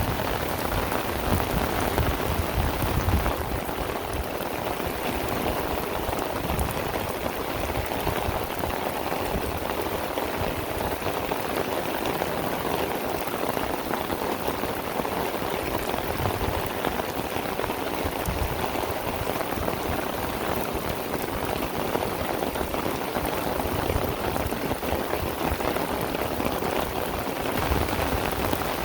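Heavy rain falling steadily, a dense patter of drops, with a low rumble now and then.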